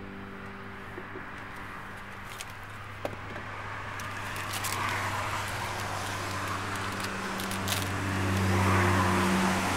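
Car engine running, a steady low hum that grows louder over the last couple of seconds, with a few small clicks.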